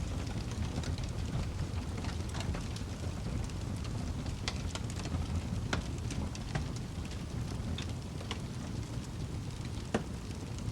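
Wood fire crackling in a fireplace: a steady low rumble of burning with scattered sharp pops, one louder pop near the end.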